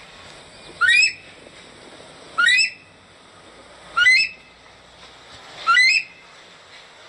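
Himalayan monal (danphe) calling: four short, loud whistles, each sweeping steeply upward in pitch, spaced about one and a half seconds apart over a steady background hiss.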